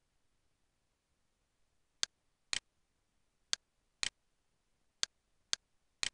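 Computer mouse clicking: seven short, sharp clicks starting about two seconds in, mostly about half a second apart.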